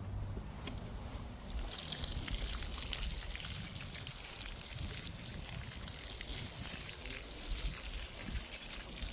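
Water spraying steadily onto garden soil, starting about two seconds in, as freshly sown green bean seeds are watered in.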